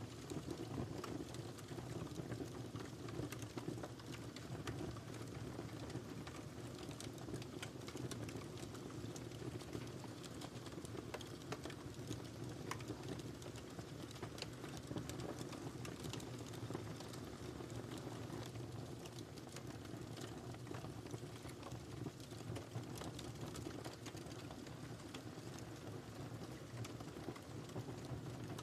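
Wood fire crackling steadily, with irregular sharp pops and snaps over a low, even rumble of burning.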